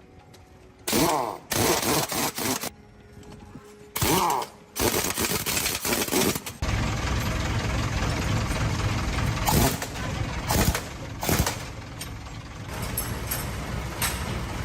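A few short loud mechanical bursts that fall in pitch, then from about halfway an engine running steadily.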